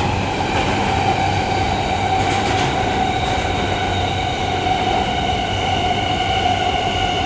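Train running, a steady low rumble with a high-pitched whine held over it.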